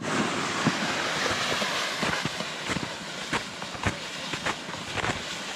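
Sleds dragging over a snowy, gritty trail: a steady scraping hiss with irregular knocks and crunches from the sleds and footsteps.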